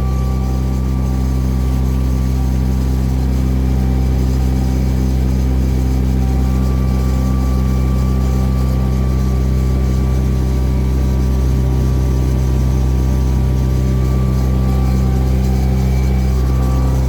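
A lake cruise boat's engine running steadily, heard on board: a constant low hum with several held tones that holds the same pitch and level throughout.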